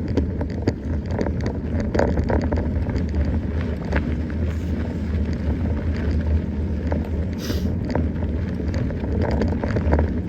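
Mountain bike being ridden over rough ground: wind rumbling on the microphone, with tyre noise and scattered clicks and rattles from the bike.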